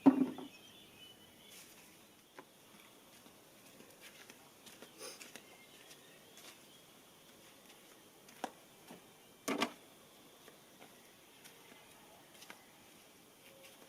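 A few short, sharp knocks or clicks, the loudest right at the start and about nine and a half seconds in, with fainter ticks scattered between over a quiet background.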